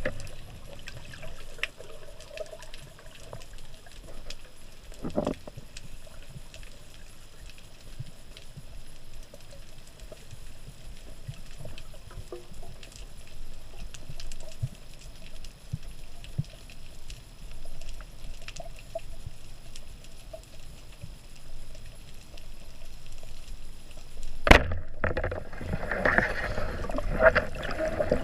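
Sea water sloshing and gurgling around a diving camera, with scattered faint clicks. About 24 s in there is a single sharp knock, and after it the water noise is louder and busier.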